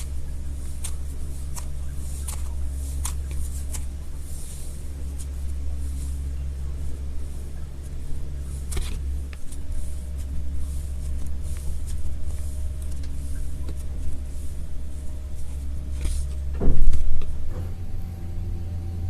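Slime being pressed and worked, giving scattered sharp pops and crackles over a steady low hum. A louder burst comes near the end, after which the hum changes pitch.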